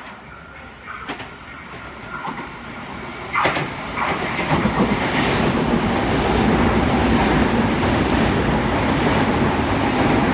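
Oscar (H set) electric multiple-unit train running through the station at speed without stopping. Its noise builds up, there are a couple of sharp clacks from the wheels about three and a half seconds in, and then a loud steady rumble and rush as the carriages pass.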